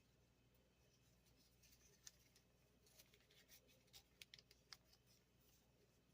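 Near silence with a few faint, short paper crinkles and ticks, bunched between about two and five seconds in, as a folded paper airplane is handled.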